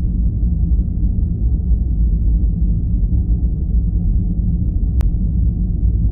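Steady, deep rumbling noise from a sleep noise track, all low end with no hiss on top. A faint tick about five seconds in.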